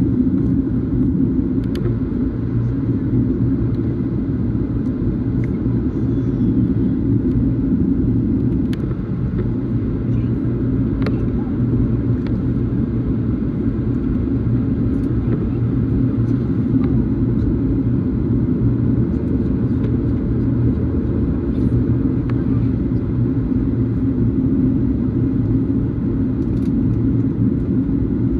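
Steady low rumble heard inside a Boeing 737's cabin, with a few faint clicks.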